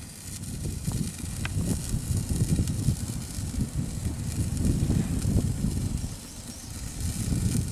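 Microwave oven running with vape juice heating inside: an uneven low rumbling crackle with a few faint clicks.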